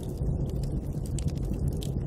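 Steady, low rumbling snowstorm wind with scattered sharp crackles of a wood fire.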